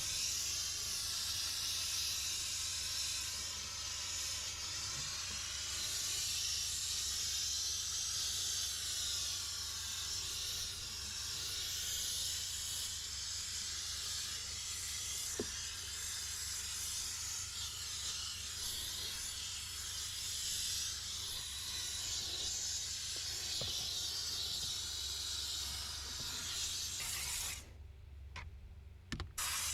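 Steam cleaner jetting steam through its nozzle with a steady hiss, cutting off for about two seconds near the end.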